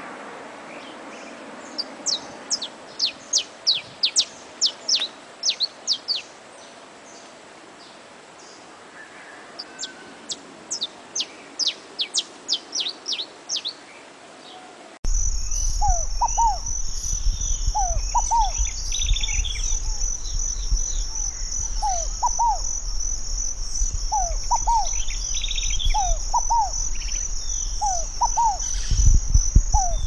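Saffron finch singing: two runs of quick, sharp high notes. About halfway through, it changes abruptly to a scaled dove repeating its low 'fogo-apagou' call about every two seconds, over a steady high insect buzz and a low rumble.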